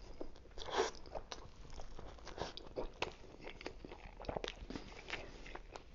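A person biting and chewing a Philly cheesesteak sandwich close to the microphone: irregular crisp crunches and wet mouth clicks, with a louder bite a little under a second in.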